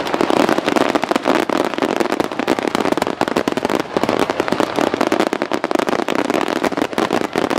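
Underwater fireworks crackling and popping in a dense, continuous stream of many overlapping small bursts.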